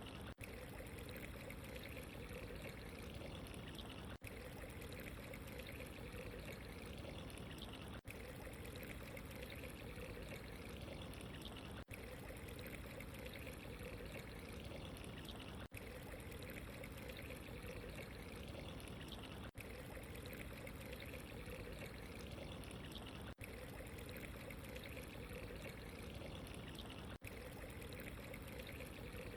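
Steady running water, a continuous pouring trickle, with a brief dropout about every four seconds.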